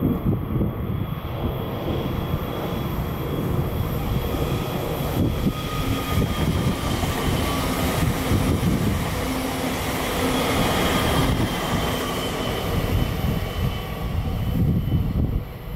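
Electric multiple unit (DB Regio Talent 2, class 442) passing at speed on electrified main-line track: continuous rolling noise of wheels on rails, with faint whining tones that drop slightly in pitch as it goes by, a little past the middle.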